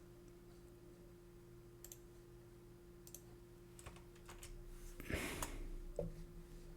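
Faint, scattered computer clicks, a few seconds apart, with a short rustling noise about five seconds in.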